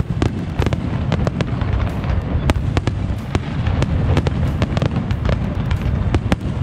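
Large fireworks display: a rapid, irregular barrage of sharp cracks and bangs from bursting aerial shells over a constant deep booming.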